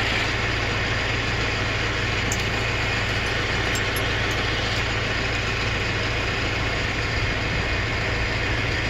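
An engine idling steadily, a constant low hum under an even, unchanging noise, with a few faint clicks.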